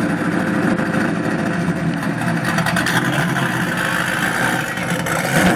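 Built 383 stroker small-block V8 in a fourth-generation Camaro Z28 idling loudly and steadily while the car creeps forward, without being revved.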